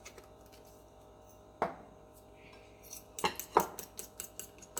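A fork clinking against a bowl: one tap, then from about three seconds in a run of quick taps, some five or six a second, as the egg mixture is stirred.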